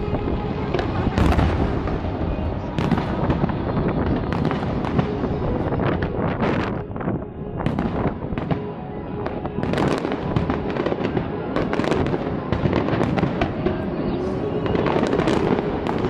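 Aerial fireworks shells bursting one after another, sharp bangs and booms about once a second, overlapping with a continuous rumble and crackle.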